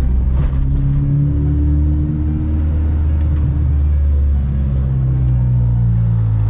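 Honda B20 four-cylinder engine in a Civic EG hatchback heard from inside the cabin while driving: a steady low drone that rises slightly in pitch over the first few seconds.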